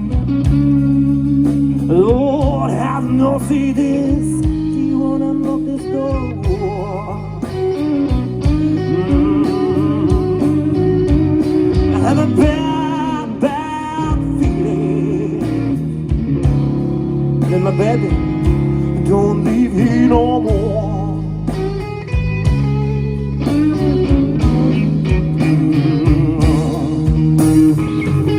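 Live blues-rock band music, loud and continuous: a lead line with bent, wavering notes, most likely electric guitar, over a steady bass part.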